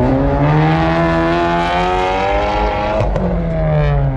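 A car engine revs, climbing in pitch and holding high for about three seconds. A sharp pop comes about three seconds in, and the engine falls back down.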